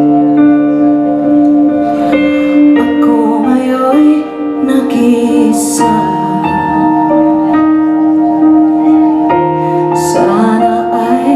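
Live band playing a slow ballad: sustained keyboard chords, with a woman's voice singing long wavering notes now and then and two brief cymbal swells.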